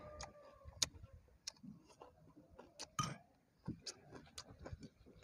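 A person chewing a mouthful of pork skin with closed lips: faint, uneven wet mouth clicks and smacks, with a stronger smack about three seconds in.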